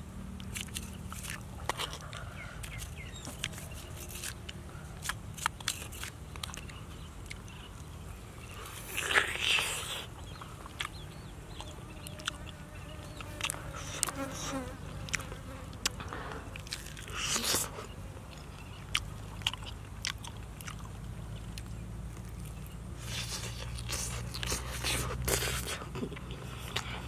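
Close-up chewing and biting of grilled catfish: crunching with many small wet mouth clicks, and two louder bursts about nine and seventeen seconds in. A fly buzzes low underneath.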